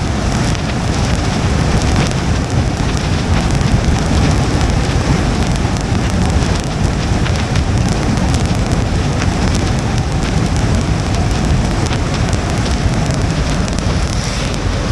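Rain pattering on a moving car, many small drop ticks over a steady rumble of tyres on wet road.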